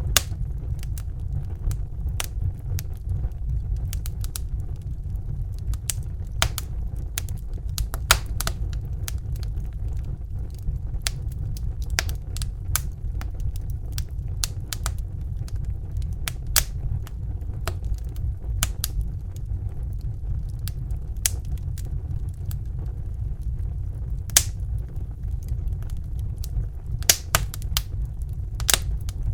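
Crackling fire: irregular sharp pops and snaps, some louder than others, over a steady low rumbling roar.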